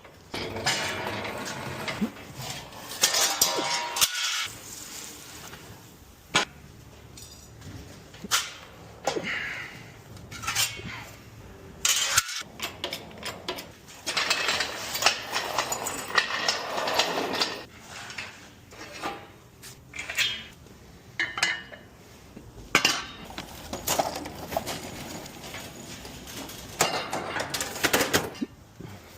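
Metal tools and engine parts clinking and clanking as the engine is worked on, with scattered sharp knocks and stretches of scraping and rattling.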